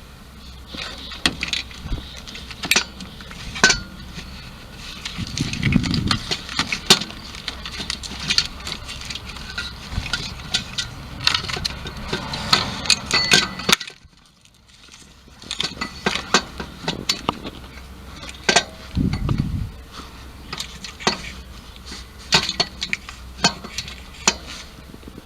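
Irregular metallic clinks and knocks, with two short low rumbles.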